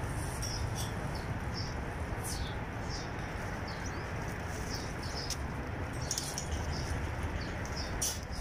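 Small birds chirping: short high notes repeated irregularly, over a steady low background rumble.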